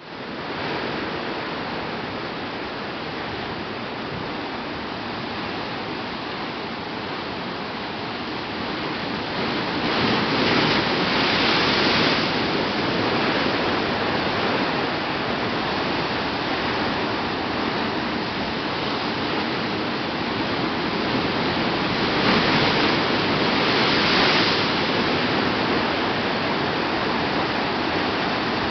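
Pacific Ocean surf: a continuous rushing wash of waves, swelling louder twice as larger waves break, about a third of the way in and again past the three-quarter mark.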